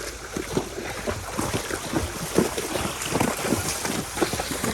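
Horses wading through water, with irregular splashing and sloshing as their legs move, and wind buffeting the microphone.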